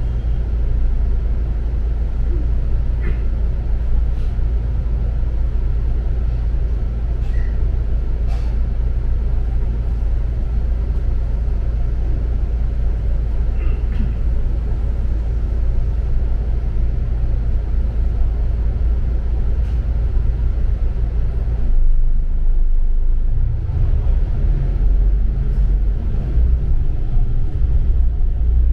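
Steady engine drone and road rumble of a double-decker city bus under way, heard from inside. About three-quarters of the way through, the higher noise drops away and the low rumble grows heavier.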